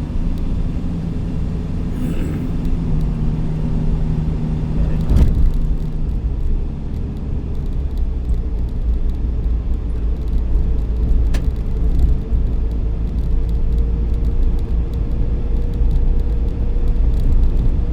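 Steady low rumble of a moving vehicle, with an engine hum that fades after about six seconds and a higher hum later on. A thump sounds about five seconds in.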